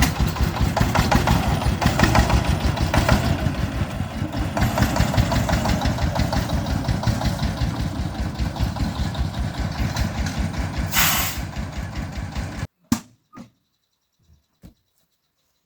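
Truck engine running with an even, rapid pulsing, then cutting off suddenly near the end. A brief hiss comes shortly before it stops, and a few short clicks follow.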